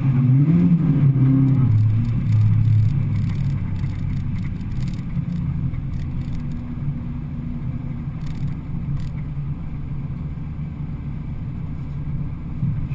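Peugeot 106 four-cylinder engine revving up and down for the first few seconds, then settling to a low, steady run with faint scattered clicks.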